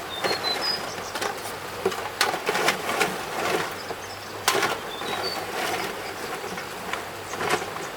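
Irregular knocks and clatter of objects being handled, with a couple of short high chirps near the start and again about five seconds in, over a faint steady hum.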